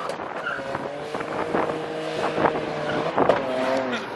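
Car engine running, its pitch bending down and back up about three seconds in.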